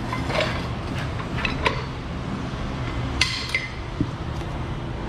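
Scattered light clinks and knocks of handling as a clip-on camera mount is moved and clipped onto a brake line, over a steady low hum.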